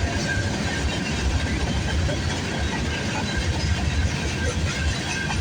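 CN freight train rolling past close by: a steady loud rumble of wheels on rail, with a thin high wheel squeal that comes and goes.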